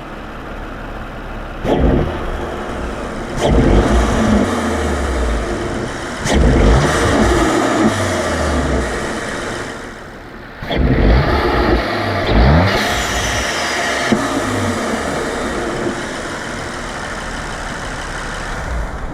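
2019 Audi RS5's twin-turbo 2.9 L V6 idling and blipped through several rev rises that fall back to idle, heard through a newly fitted carbon fiber cold-air intake.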